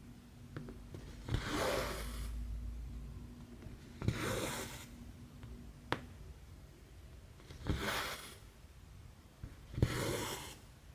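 Cross-stitch thread being drawn through 11-count stitching fabric with a needle: four swishing pulls about two to three seconds apart, with a few small clicks of the needle against the fabric between them.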